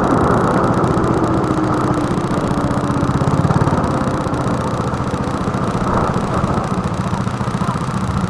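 Go-kart engine running at low, steady revs.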